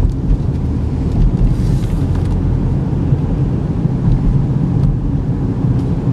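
Steady low rumble of a 2013 Chevy Equinox driving, heard from inside the cabin: road and engine noise.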